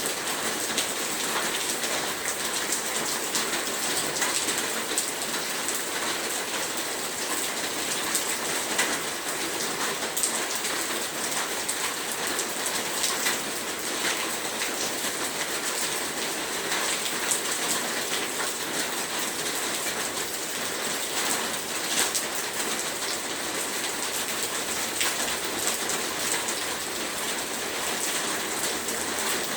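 Heavy rain falling steadily, a dense hiss of drops with many individual patters and splashes on surfaces.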